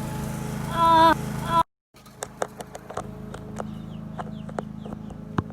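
Steady low hum with a short, loud, wavering call about a second in. After a brief dropout come a string of light sharp clicks and a few faint high bird chirps.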